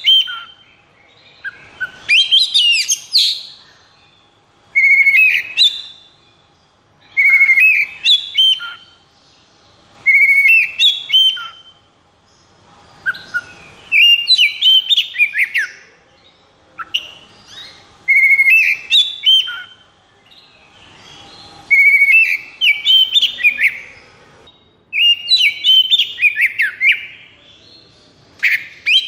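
Oriental magpie-robin (kacer) singing in the agitated 'konslet' style: short bursts of loud whistled, sweeping notes, repeated about every two and a half to three seconds with brief pauses between.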